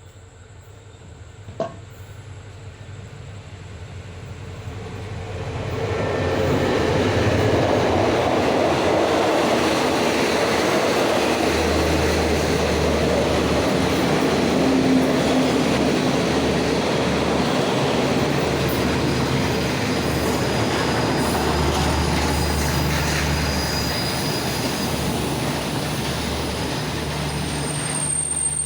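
Diesel train pulling into the station: the rumble of wheels on rail builds over the first six seconds, then holds steady with a low engine drone and wheel squeal.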